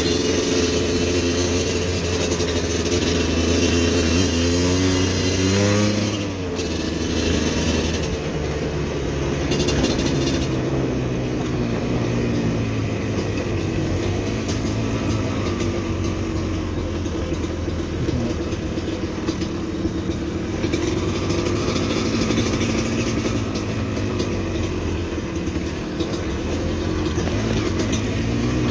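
Motorcycle engine running while riding, its pitch rising and falling as the throttle opens and closes, with quick revving sweeps about a fifth of the way in and again near the end, over a steady hiss.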